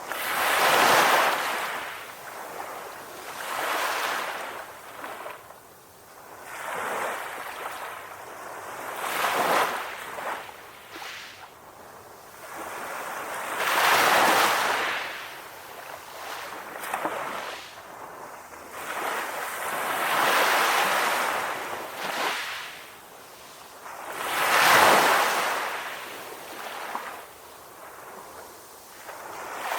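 Calm ocean waves washing in one after another: a rush of surf swells and fades away every two to five seconds.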